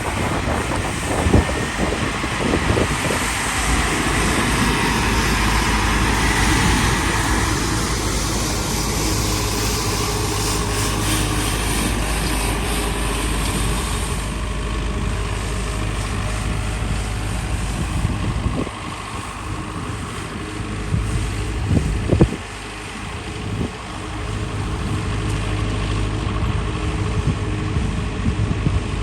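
Street vacuum sweeper truck running: a steady engine drone under the hiss of its suction, with a few sharp knocks.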